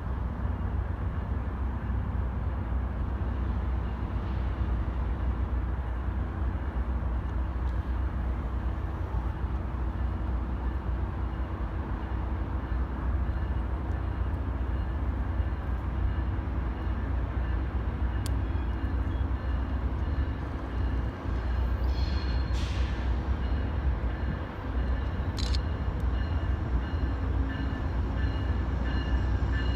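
Train at close range: a steady low rumble with faint steady tones, and two short hisses a few seconds apart near the end.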